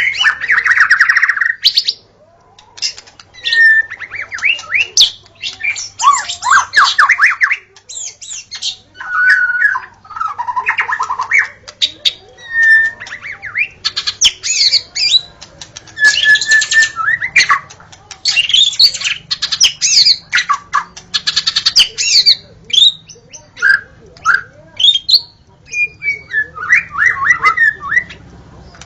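White-rumped shama (murai batu) singing a long, varied song: rapid whistled phrases, fast trills and harsh rasping notes, with short pauses between phrases.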